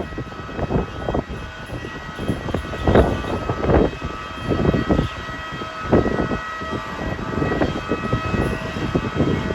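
Strong gusty wind buffeting the microphone in irregular surges, over a steady high whine of machinery from the airliner or the de-icing vehicle.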